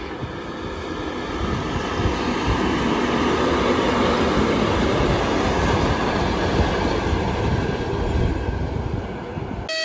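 ЭП2К electric locomotive hauling a VD-1MT rail flaw-detector car, passing close by with the rumble of wheels on rails and the locomotive's running noise. The noise grows loud as it comes past, eases slightly toward the end, then cuts off suddenly.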